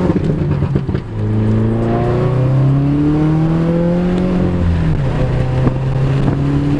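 Car engine accelerating through the gears: its pitch climbs steadily, drops with an upshift about a second in, climbs again, then drops with another shift near the five-second mark and holds steady.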